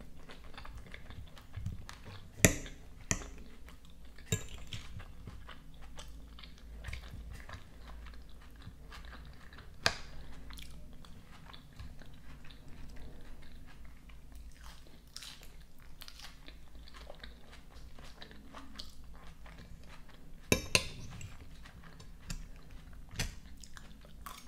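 Close-up chewing and biting of a salad of grilled trout, avocado, tomato, cucumber and iceberg lettuce, with light crunching. A metal fork clicks against a ceramic plate now and then, the sharpest clicks a couple of seconds in, about ten seconds in, and twice a little after twenty seconds.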